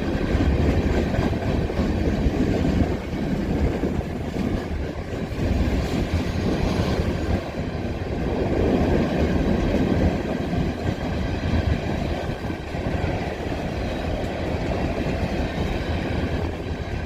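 Loaded coal train cars rolling past, a steady heavy rumble with the rapid clatter of wheels over rail joints.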